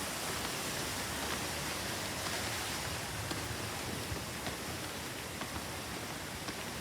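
Steady hiss of background noise with a few faint clicks.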